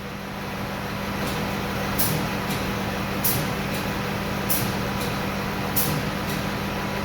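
Diesel engine of a Peterbilt 337 service truck (PACCAR PX-8) running steadily, with a short high-pitched hiss about every second and a quarter.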